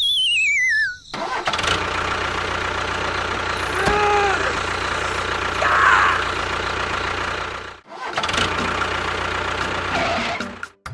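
A steady engine-like running sound with a low hum, broken off once near the end and then resuming. It is preceded by a wavering whistle that falls in pitch during the first second.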